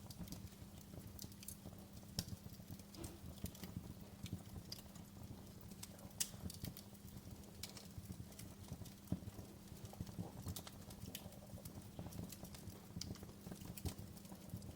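Wood fire crackling: irregular sharp pops and snaps, some louder than others, over a low steady rumble.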